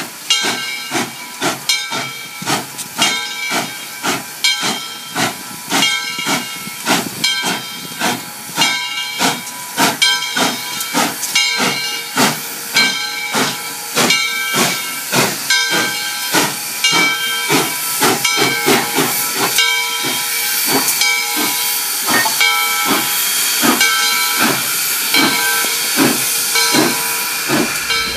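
Coal-fired steam locomotive working under steam: rhythmic exhaust chuffs about two a second over a steady hiss, with sustained ringing tones running alongside. In the last third the hiss grows and the beats blur together.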